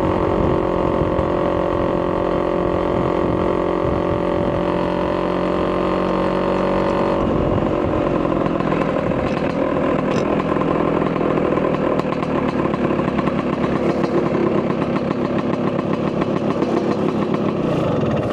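Vespa PX200's two-stroke single-cylinder engine, bored to 210cc, running through an expansion-chamber exhaust: a steady engine note at constant speed, which about seven seconds in changes to a rougher, more uneven running.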